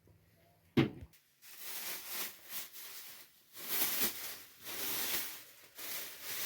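A single sharp knock, then a run of irregular noisy crunching or rustling surges.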